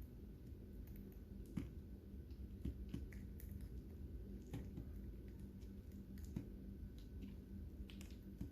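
Lovebirds eating seed: faint, scattered clicks and cracks of beaks on seed, spaced irregularly about a second apart, over a low steady hum.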